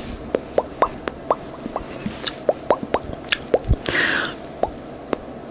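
Mouth-made bubble-popping sounds: a quick, irregular string of about fifteen wet pops, each one rising sharply in pitch. A short hiss comes about four seconds in.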